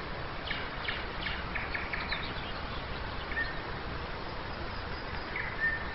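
Nightingale singing over a steady background hiss: a rapid run of sharp clicking notes, then short pure whistles, one of them near the end.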